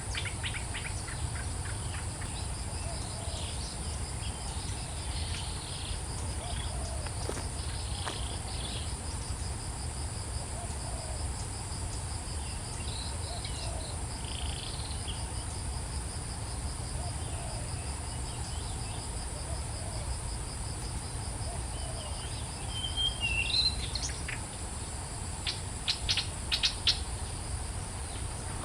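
Steady outdoor insect chorus, a continuous high drone with a fast pulsing trill beneath it, over a low rumble. Birds chirp faintly here and there, with a louder run of short, sharp chirps near the end.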